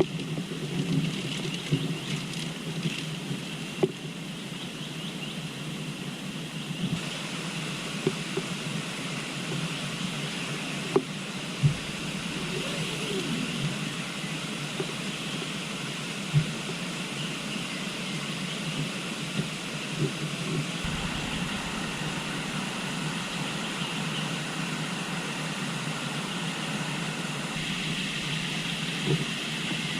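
Steady rush of river water at night, with a few faint knocks.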